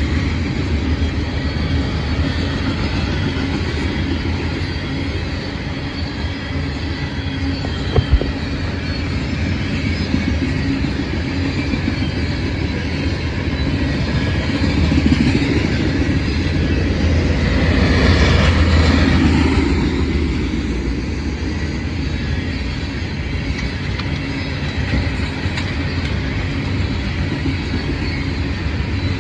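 Freight train of coal hopper cars rolling past: a steady rumble and rattle of steel wheels on the rails. There is a sharp double click about eight seconds in, and the noise swells for a few seconds about two-thirds of the way through.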